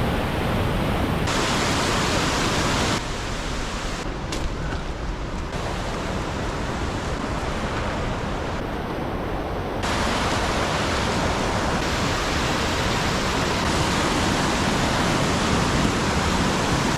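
Steady outdoor rushing noise that changes abruptly in level and brightness several times, around 1, 3, 5.5 and 10 seconds in.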